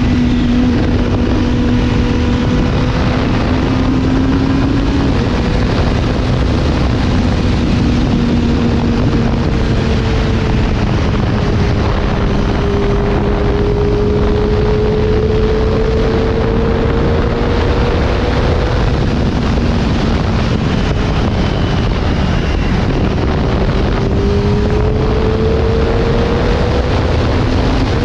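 Wind blasting the helmet-mounted camera's microphone over a Kawasaki ZX-25R's 249 cc inline-four through an Akrapovič exhaust, running steadily on the move. The engine note sags slowly and climbs again.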